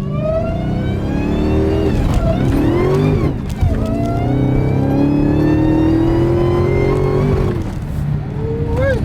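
Dodge Hellcat's supercharged V8 accelerating hard. The engine note climbs, drops back twice at gear changes, then makes a long climb that eases off near the end.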